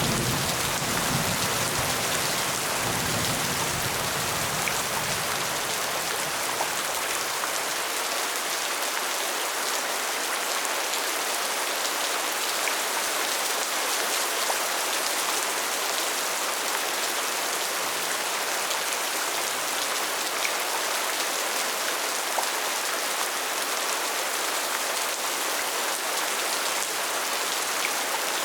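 Steady heavy rain falling, an even dense hiss of drops, with a low rumble dying away over the first several seconds.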